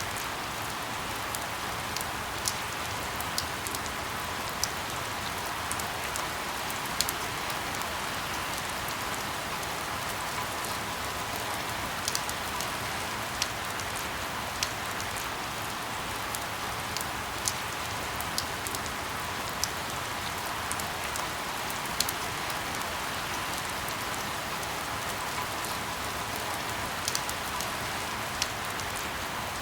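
Steady rain falling, an even hiss with irregular sharp drop impacts scattered through it.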